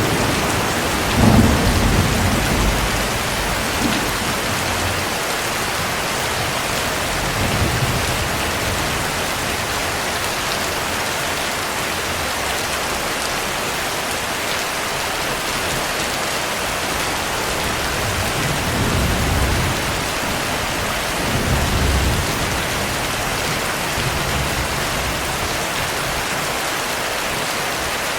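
Steady heavy rain with several low rolls of thunder, the loudest near the start.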